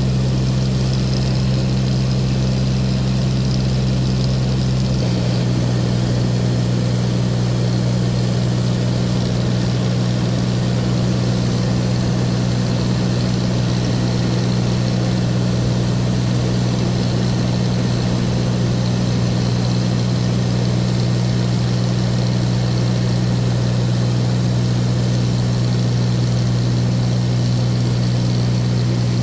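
Light aircraft's propeller engine running steadily, heard from inside the cabin, with a slight change in its tone about five seconds in.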